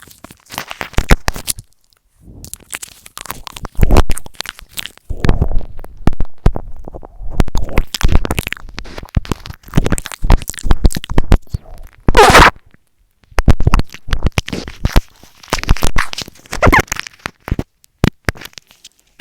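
ASMR mouth sounds close to the microphone: loud runs of wet clicks, smacks and crackles, pausing briefly a couple of times.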